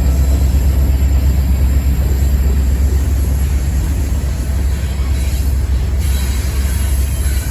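Freight train cars rolling past with a steady low rumble.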